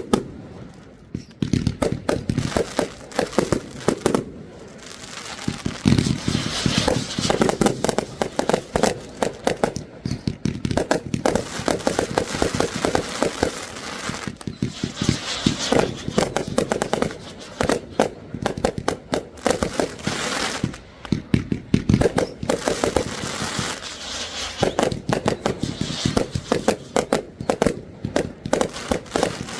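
Fireworks going off in rapid succession: dense crackling and popping bangs, with a few brief lulls.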